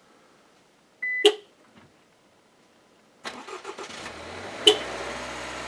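A short beep and a click, then the 2021 Subaru Legacy XT's 2.4-litre turbocharged flat-four, remote-started from the phone app, cranks and catches about three seconds in and settles into a steady cold-start idle.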